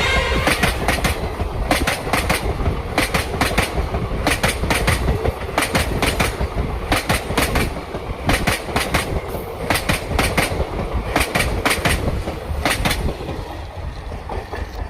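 Wadiyar Superfast Express (train 12613) running on the track: its wheels clack over the rail joints in quick pairs above a steady low rumble, growing fainter over the last few seconds.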